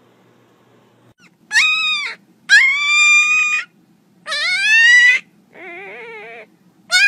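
A puppy crying in a series of five high-pitched whines, each held for about half a second to a second. The fourth is lower, quieter and wavering, and the fifth begins near the end.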